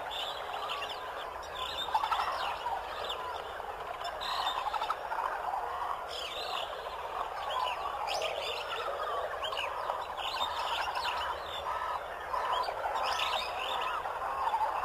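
Continuous chattering of many overlapping bird-like chirps and gobbling calls, with no break.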